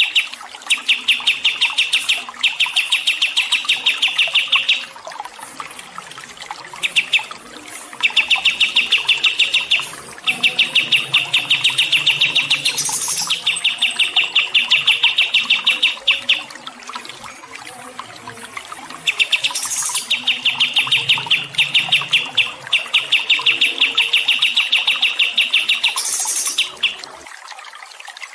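A songbird chirping in fast, evenly repeated notes, about seven a second, in runs of a few seconds broken by short pauses, with a few higher, sharper notes in between.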